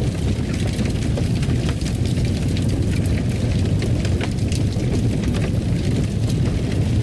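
Wood fire crackling in a fireplace: a steady low rumble of flame with frequent, irregular sharp crackles and pops.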